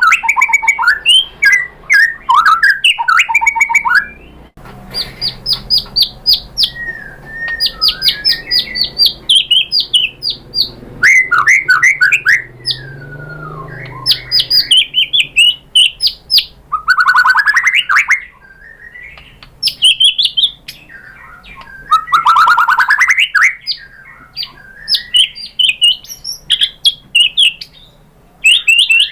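White-rumped shama singing a varied song of rapid chattering note runs, trills and sliding whistles, in phrases of a second or two with short pauses between.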